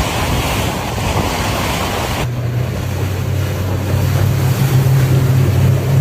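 Wind on the microphone and rushing water for about two seconds, then an abrupt change to the steady low hum of a 40 hp Mercury outboard motor running under way.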